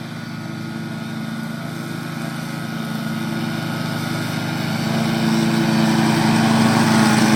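John Deere zero-turn riding mower running at steady speed, its engine hum growing louder as the mower approaches over the last few seconds.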